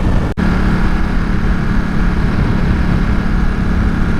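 Motor vehicle engine running at a steady pitch over road and wind noise, with a brief dropout about a third of a second in.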